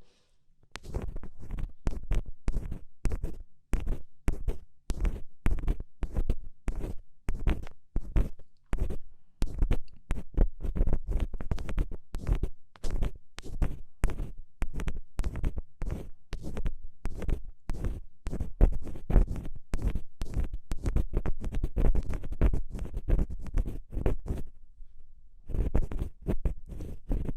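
Ear cleaning ASMR: a black ear pick scratching and scraping close to the microphone in quick, continuous strokes, with a brief pause near the end.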